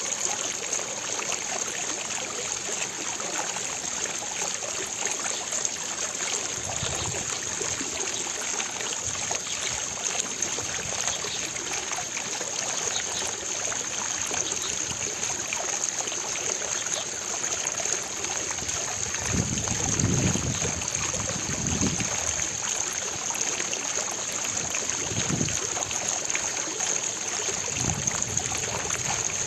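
Fountain water falling and splashing steadily into its basin, with a few brief low rumbles in the middle and near the end.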